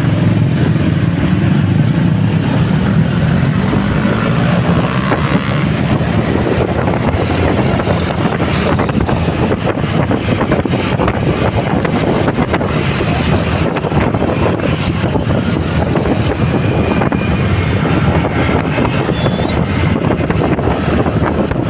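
Motorcycle riding in traffic: a steady engine and road noise mix, with wind buffeting the microphone.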